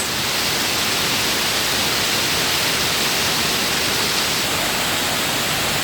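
Steady rush of water falling down a 40-foot indoor waterfall, an even hiss-like roar with no breaks.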